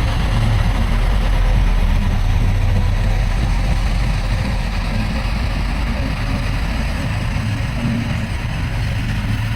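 Heavy diesel engine of earthmoving machinery running steadily, a low rumble that eases slightly about halfway through.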